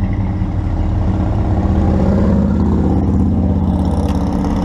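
Chevy 350 V8 in a 1972 Nova running steadily at idle shortly after a cold start, getting a little louder about two seconds in.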